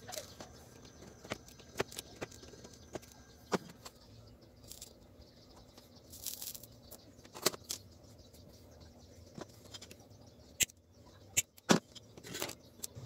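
Scattered light clicks and taps of small tools and parts being handled on a workbench, with a few sharper clicks near the end.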